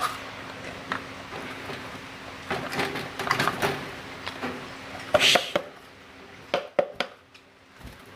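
Handling noise as a bird box and a wire cage are worked: rustling, light knocks and clicks, busiest a few seconds in, with a louder scrape about five seconds in and a few sharp clicks near the end, over a faint steady hum.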